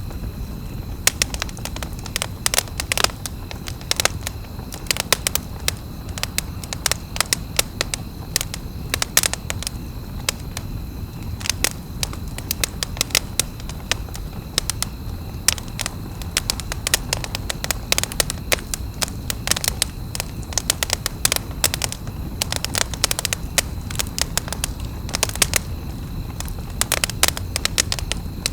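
Wood campfire crackling, with frequent irregular sharp pops and snaps over a low steady rumble of the flames.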